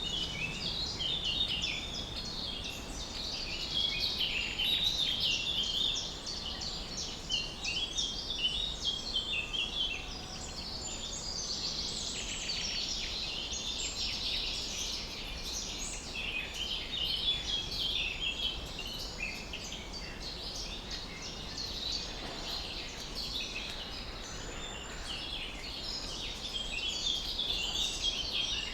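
A dense chorus of many small birds chirping at once: rapid, overlapping high-pitched notes without a break, over a steady low background noise.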